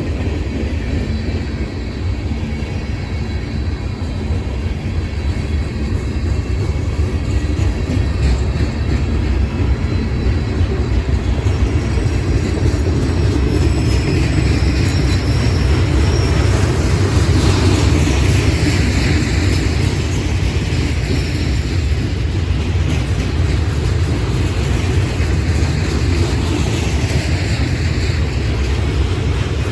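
Train rolling past: a steady rumble of wheels on the rails that grows a little louder about halfway through, with higher-pitched wheel noise wavering over it in the second half.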